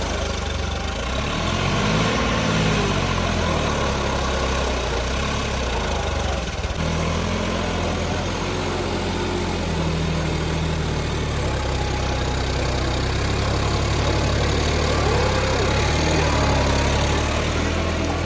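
Tractor diesel engine running steadily at a low pitch. Its note rises and falls briefly about two seconds in and again near the end.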